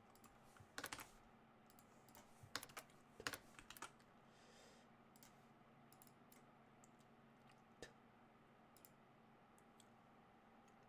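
Computer keyboard typing: two short bursts of key presses in the first four seconds, then a few single key taps, over a faint steady hum.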